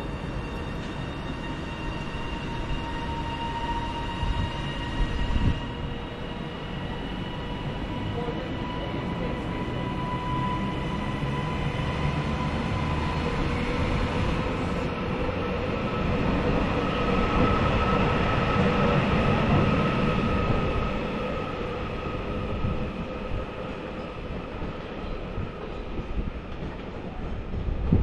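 Class 397 electric multiple unit pulling out of the platform, its traction equipment whining in several steady tones over the rumble of the train. The train noise is loudest about two-thirds of the way through.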